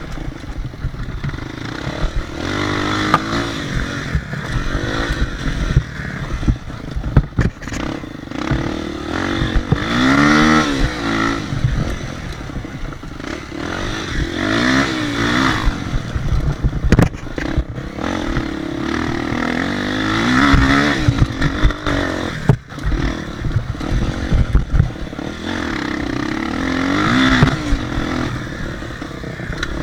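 Motocross dirt bike engine running hard, its pitch rising and falling every few seconds as the throttle is worked, with rough rumbling and knocks underneath.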